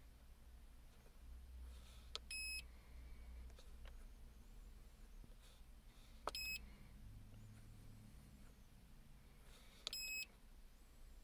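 Snap-on MT2500 scan tool beeping as its keys are pressed to page through the trouble-code screens: three short, high beeps, each starting with a click, about four seconds apart.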